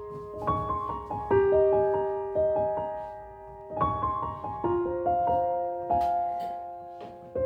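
Background music: a slow, soft piano melody, notes struck every second or so and left to ring and fade.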